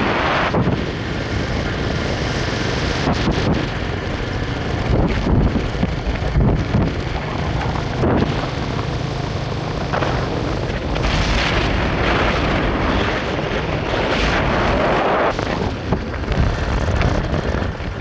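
Wind rushing over the microphone with the road and engine rumble of a moving vehicle, swelling and easing in gusts.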